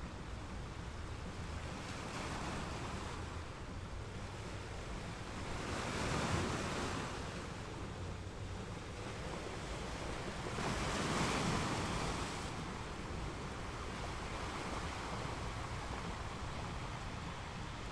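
Sea water washing and splashing, with wind buffeting the microphone; the wash swells louder twice, about six and eleven seconds in.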